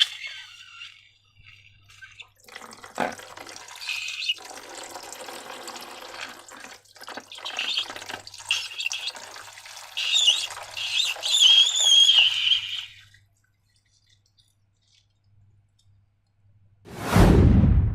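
Wet liquid sounds of slime being poured and handled, on and off, with a wavering high squeak about ten to twelve seconds in. A short loud low whoosh follows near the end.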